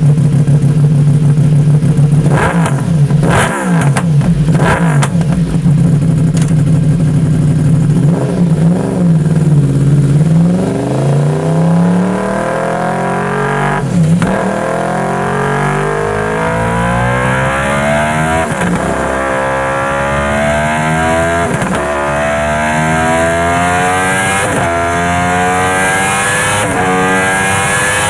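Yamaha R1's inline-four engine through an aftermarket exhaust: it idles and is blipped sharply several times, then about ten seconds in pulls away hard and climbs through the gears, the revs rising and dropping back at each upshift every two to three seconds.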